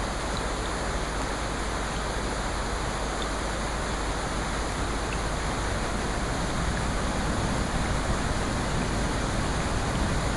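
Steady water ambience: an even rushing hiss with no breaks or rhythm.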